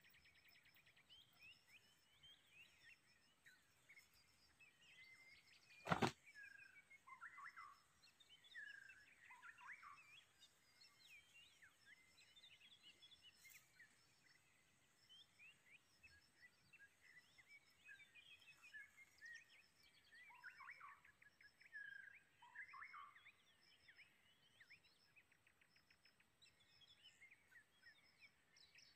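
Quiet outdoor ambience of small birds chirping and twittering on and off, over a faint, evenly repeating high ticking. A single sharp click about six seconds in is the loudest sound.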